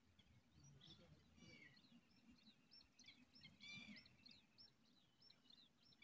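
Faint, rapid high-pitched bird chirps, several a second, loudest a little past halfway.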